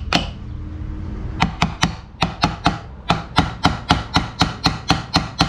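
Light, rapid hammer taps seating the intermediate shaft of a 42RE automatic transmission. A strike or two come at the start, then a steady run of about five taps a second from about a second and a half in.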